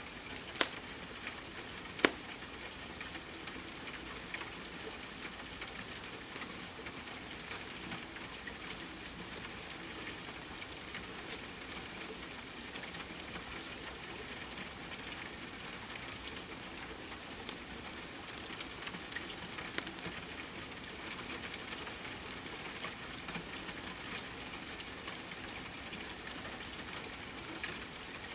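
Steady rain patter mixed with a wood fire crackling, with two sharp pops in the first couple of seconds and scattered smaller crackles after.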